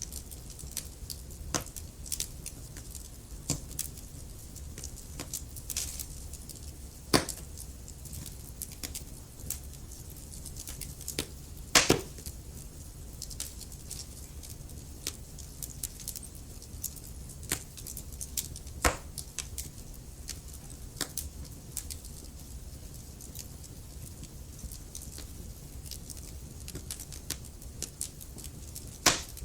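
Wood fire burning in a fireplace, crackling with frequent small irregular snaps and about four louder pops, over a steady low rumble.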